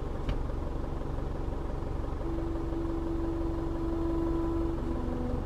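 Isuzu D-Max 2.5-litre twin-turbo diesel idling steadily, heard from inside the cab as a low rumble. A faint steady hum comes in near the middle and steps down in pitch near the end.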